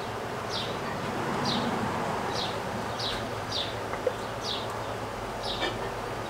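A small bird chirping over and over, short high chirps that each fall in pitch, about one every half second, over a steady low background hum.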